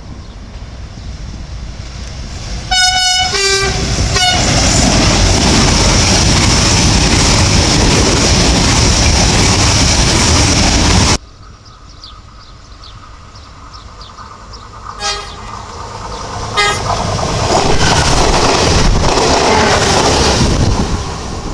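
A train sounds a short two-note horn, high then low, and passes at speed with a loud, steady rush of wheels and wind. After an abrupt cut, another train gives two short horn blasts in greeting and the rushing noise of its passing builds.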